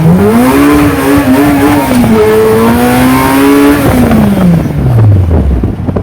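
Car engine revved up near the start and held high for about three seconds, with a brief dip in the middle, then sinking back toward idle near the end.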